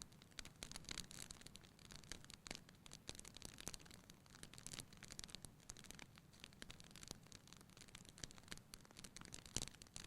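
Wood fire burning in a fireplace, crackling and popping in quick irregular clicks over a faint steady hiss, with one sharper pop near the end.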